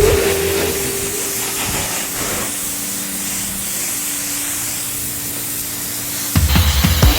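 Pressure washer spraying water in a steady hiss. Music with a heavy beat comes back in near the end.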